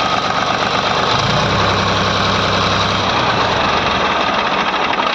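HMT tractor diesel engine running steadily, with a continuous rapid clatter, after its valve stem oil seals have been changed.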